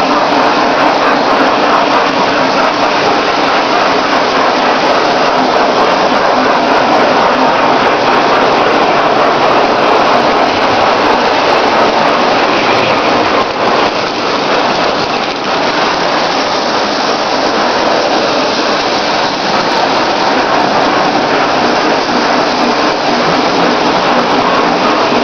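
Lionel O-gauge toy train running on Super O track, a loud steady rumble of wheels and motor on the rails with a brief slight dip about halfway through.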